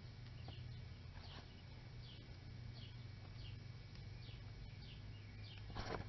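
A small bird chirping repeatedly, short high downward chirps about two or three times a second, over a low steady hum. A single short knock near the end.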